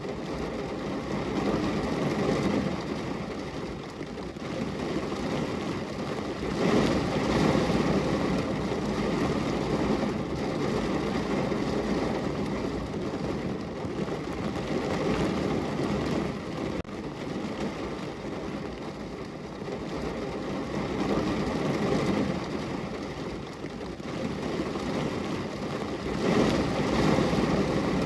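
Rain falling on a window: a steady rushing noise, heaviest in its low rumble, that swells and eases every few seconds.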